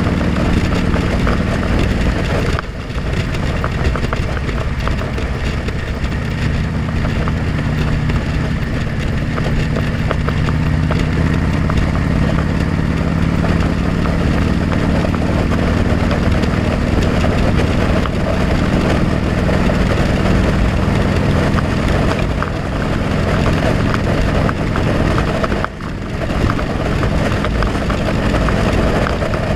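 Motorcycle engine running steadily under wind and road noise, heard from a helmet-mounted camera while riding. The sound dips briefly twice, about three seconds in and near the end.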